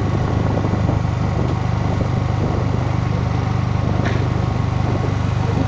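Yamaha R15 V3's single-cylinder engine running at a steady, even note.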